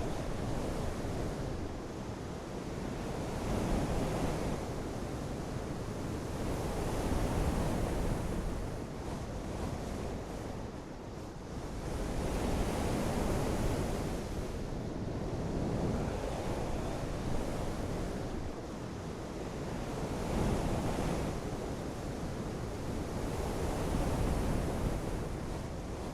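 Gusty wind buffeting the microphone: a rumbling rush that swells and eases every few seconds.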